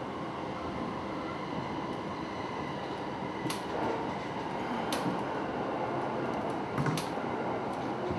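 Cabin running noise of an electric commuter train at speed: a steady rumble of wheels on the rails, with a few sharp clicks from about three and a half seconds in.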